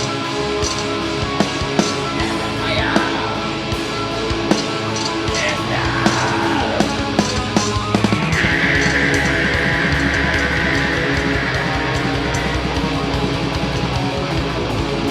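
Live heavy metal band playing: distorted electric guitars and drums. A few sliding, falling pitches come midway, then a long high held note from about eight seconds in.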